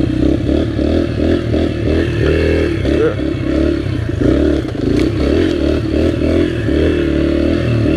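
Dirt bike engine running at low speed, its revs rising and falling again and again with the throttle.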